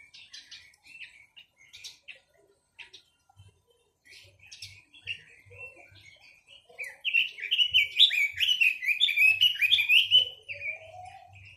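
A caged songbird of the kind kept in Vietnam as a 'quế lâm' singing: scattered short chirps, then about seven seconds in a loud, rapid run of short falling whistled notes lasting about three seconds.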